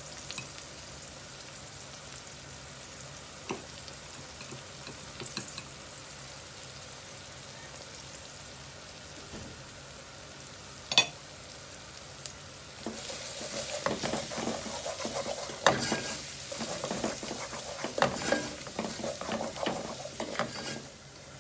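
Onions and spice powder frying gently in a metal pot, a soft steady sizzle, with a single sharp knock about halfway through. From about two-thirds of the way in, a wooden spoon stirs and scrapes the masala around the pot with many short knocks, and the frying gets louder.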